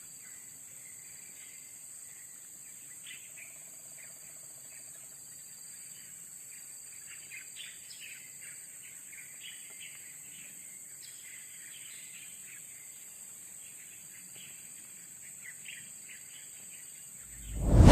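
Many small songbirds chirping in short, scattered calls over a steady high-pitched insect drone. Near the end a loud rush of noise cuts in.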